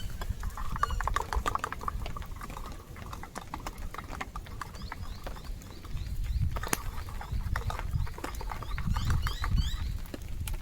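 Metal spoon stirring coffee in a mug, a run of quick light clinks against the side, over a steady low rumble of wind on the microphone.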